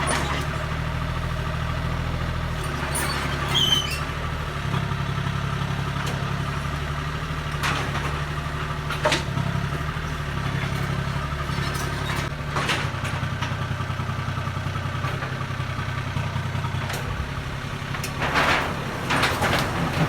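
Excavator diesel engine running, its note shifting as the load changes, with a few sharp knocks and a brief squeak of the machine working.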